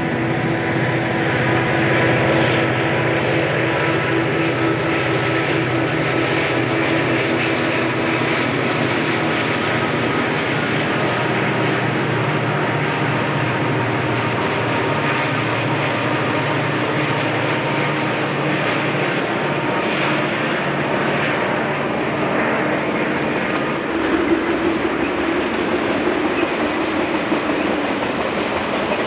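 Diesel freight train passing: a steady engine drone from the locomotives over the rumble of rolling railcars. Near the end the drone gives way to a more even rumble of cars rolling by.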